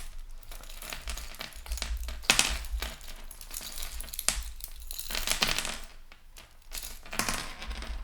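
Costume jewelry being handled and rummaged through, with rustling and light metal clinking in irregular bursts as tangled fine chains are pulled at.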